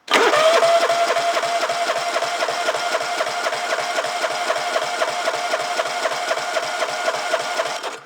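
Kawasaki FC420V 14 hp single-cylinder engine being cranked over for a cold compression test: a steady whine with a regular pulse about four to five times a second, starting and stopping abruptly. The gauge reads 130 PSI, a healthy compression.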